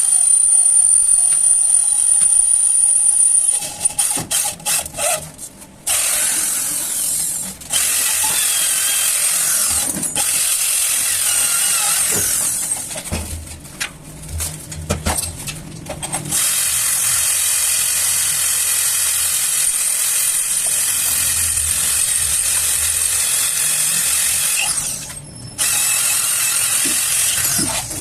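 Electric power drill running in several long runs with short stops in between, working on a motorcycle's metal rear wheel hub; a high steady whine carries over the first few seconds.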